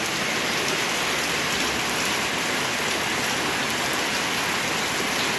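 Heavy rain falling steadily onto puddled mud and plants, a constant even hiss.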